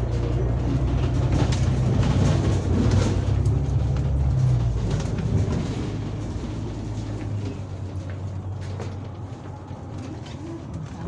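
City bus's diesel engine heard from inside the cabin, a loud low drone that drops away about halfway through as the bus eases off, with light rattles and clicks from the body.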